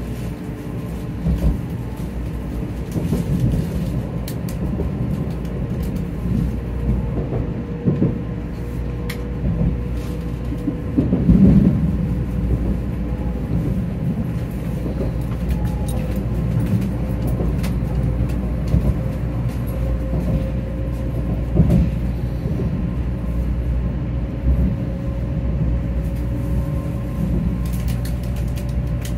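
Cabin sound of a 500 Series Shinkansen running at low speed: a steady rumble of the wheels on the rails, with a faint motor whine slowly rising in pitch as the train gathers speed, and a few short knocks.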